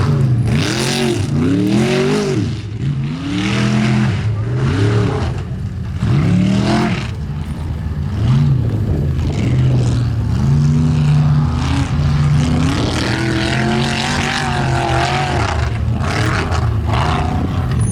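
Formula Offroad hillclimb car's engine revving hard and dropping back about five times in quick succession, then held at high revs with smaller swings as it powers up the course.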